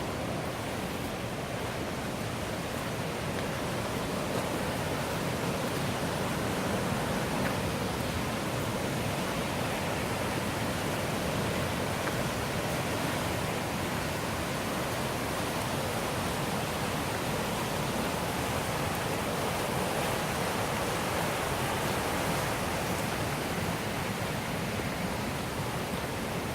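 River water rushing in a steady, unbroken noise.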